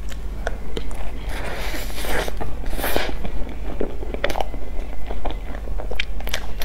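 Close-up biting and chewing of a cream puff with a crisp sugar-crumb crust and a whipped-cream filling: irregular crackly crunches and soft chewing.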